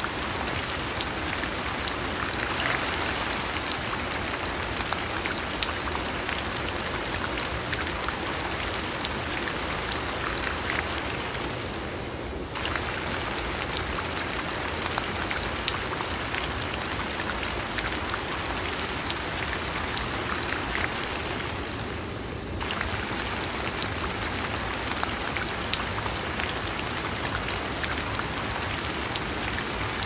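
Steady rain falling, with many single drops ticking close by on hard surfaces. The sound softens briefly twice, about twelve and twenty-two seconds in.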